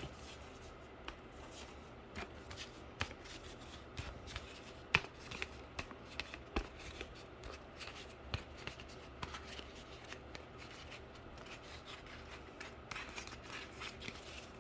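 Cardboard being handled and bent by hand on a table: scattered light taps, rustles and scrapes at irregular intervals.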